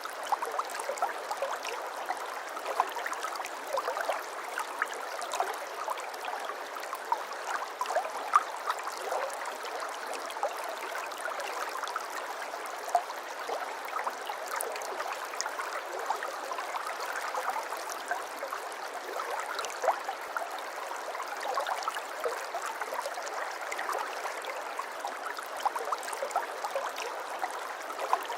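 Shallow flowing water babbling and trickling steadily, with many small splashes and droplet ticks.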